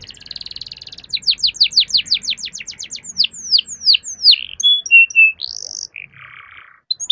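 Domestic canary singing: a fast buzzy trill, then a run of down-sweeping whistled notes that slow as they go, a few short whistles and a rising note, and a harsh rasping phrase near the end.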